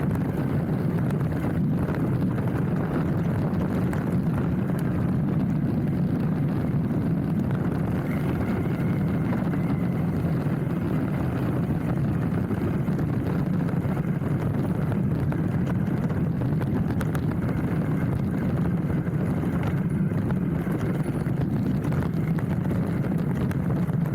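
Hardtail mountain bike rolling downhill on a trail: a steady rumble of tyres on the dirt with many small rattling knocks from the bike, picked up through the handlebar-mounted camera.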